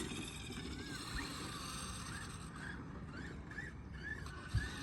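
Electric motor of an RC motorcycle whining in short rising-and-falling throttle blips, several a second, with a single thump near the end.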